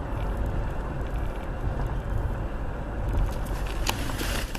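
A vehicle driving: a steady low rumble of engine and road noise, with a few faint clicks near the end.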